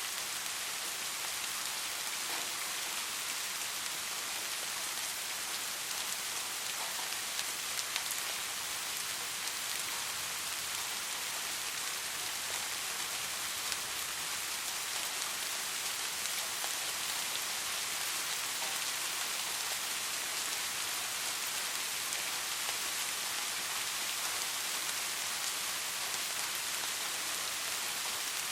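Steady soft rain falling, an even hiss of many drops with the odd closer drop ticking through.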